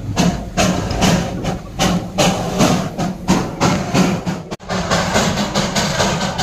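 Darjeeling Himalayan Railway toy train running, with a quick regular beat of about three strokes a second over a steady low rumble. It cuts out for a split second about four and a half seconds in.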